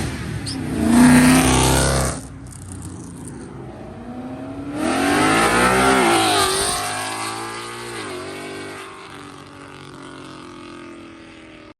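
Modified cars accelerating hard: one engine revs loudly about a second in and cuts off near two seconds, then a second car's engine rises in pitch and passes by about five seconds in, dropping in pitch and fading away.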